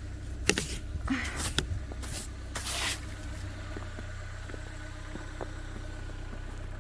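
Steady low rumble of a car heard from inside the cabin while driving, with a few short swishing noises in the first three seconds and a couple of faint clicks later on.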